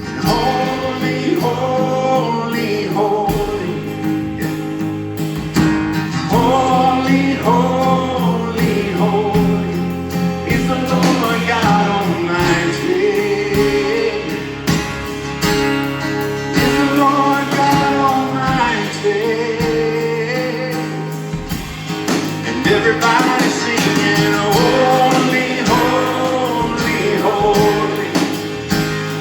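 Live worship band playing with sung vocals, a slow gospel-rock bridge.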